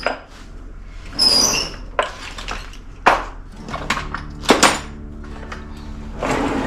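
Handling noises of small parts being fitted by hand: a short squeak about a second in, then several sharp clicks and knocks.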